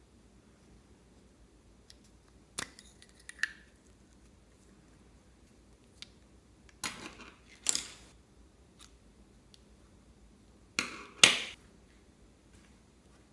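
Slime being squeezed and pressed by hand: short squelching, popping bursts in three clusters, about two and a half, seven and eleven seconds in, the last the loudest.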